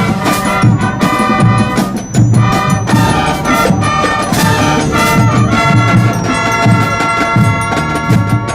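A brass band playing, with trumpets and trombones over a steady beat of drums.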